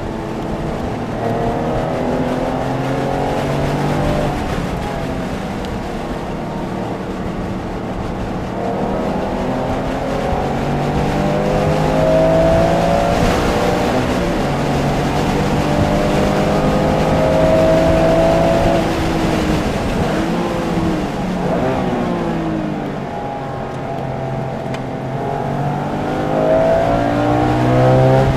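Porsche engine under hard acceleration, heard from inside the car. Its pitch climbs through the gears several times and falls on braking and downshifts about two-thirds of the way through.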